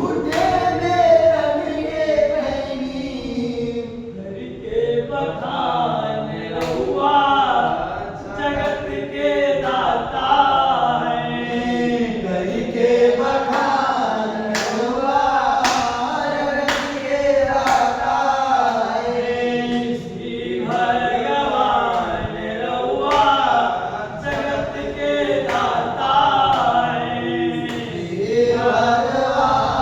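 A group of voices sings a Bhojpuri devotional bhajan with a flowing melody, and a few sharp clicks are scattered through.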